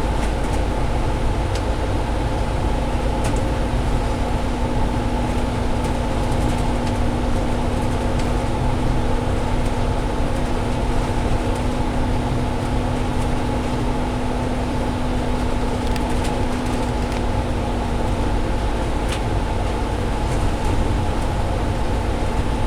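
Inside a double-decker bus cruising at steady speed: the low rumble of the road and the Cummins ISL diesel engine, with a constant hum through the cabin.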